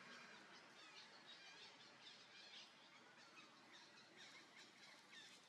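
Faint, high, short chirping calls repeated many times over a quiet background hiss.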